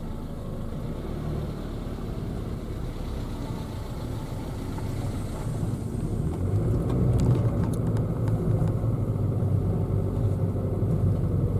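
Citroën Saxo driving on a snowy road: engine running and tyres rumbling steadily, growing louder about halfway through.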